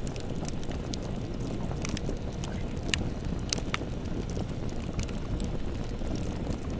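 Campfire burning: a steady low rush of flame with scattered sharp crackles and pops, a few louder ones about three to four seconds in.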